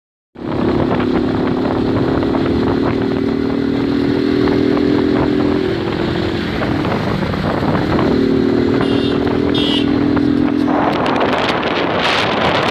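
Motorcycle engine running steadily on the move, its drone dropping away briefly about six seconds in and returning. From about eleven seconds wind buffeting the microphone takes over.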